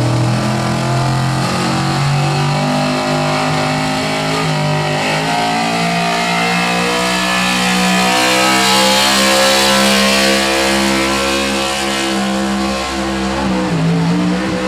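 Engine of a pulling vehicle running hard under load as it drags the weight sled down the track; its pitch holds high and shifts up and down in a few steps.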